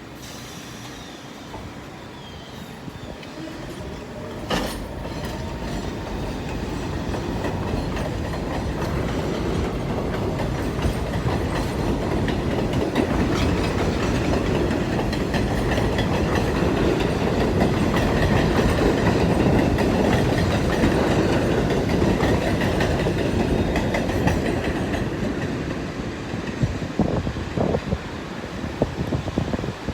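R46 subway train departing a station, with its wheels clattering over the rail joints. A sharp knock comes about four seconds in. The train then grows steadily louder, is loudest around the middle, and fades near the end with a few sharp clacks.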